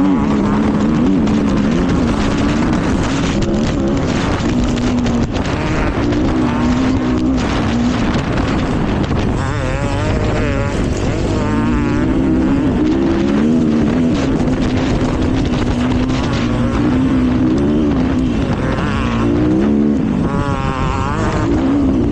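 Dirt bike engine revving up and down as it is ridden hard through the trail, pitch rising and falling with the throttle, with wind rushing over the microphone.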